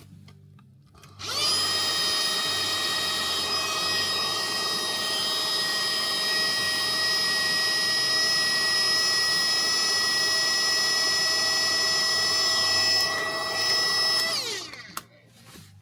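A small electric motor starts about a second in and runs with a steady high whine for about thirteen seconds, then winds down, its pitch falling, and stops.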